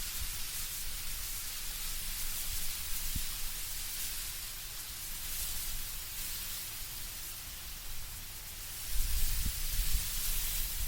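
Wind rustling the leaves of autumn trees: a steady high hiss that swells and eases. A low rumble joins near the end.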